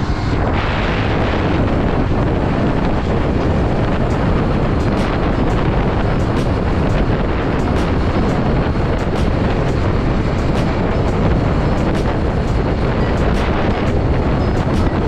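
Wind rushing over the microphone while riding a motorcycle, with engine and road noise underneath, loud and steady throughout.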